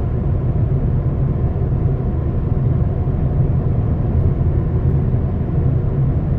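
2013 Ford Fiesta driving at steady speed on the highway: a continuous low rumble of engine and tyre-on-road noise.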